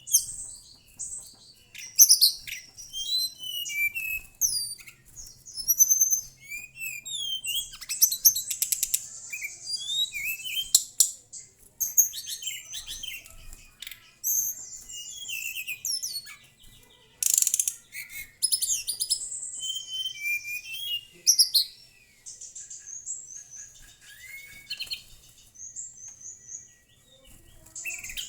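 Mangrove whistler singing: a dense run of loud whistled phrases, with rapid rising and falling chirps and sharp trilled notes.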